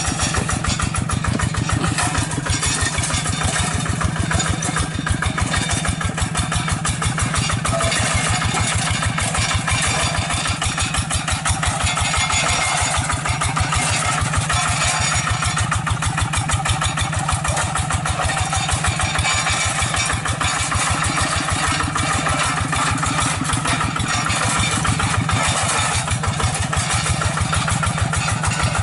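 Hand tractor's single-cylinder diesel engine running steadily, with an even, unchanging beat.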